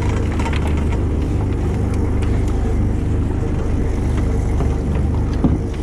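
A fishing boat's engine running with a steady low drone, with faint scattered clicks and a short knock near the end.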